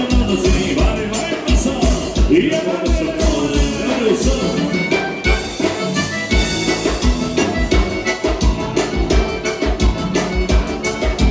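Live gaúcha dance music from an accordion-led band playing an instrumental stretch over a steady, even bass beat.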